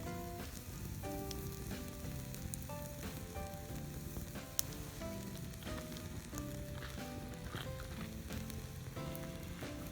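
Wood campfire crackling, with scattered small pops and one sharp pop about four and a half seconds in, under soft background jazz.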